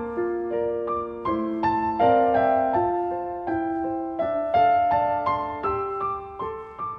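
Background music: a soft piano plays a flowing line of notes, each struck and then fading.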